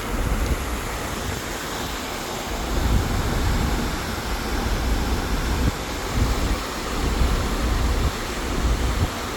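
Wind buffeting the microphone outdoors near open water: a steady rushing noise with an uneven, gusting low rumble.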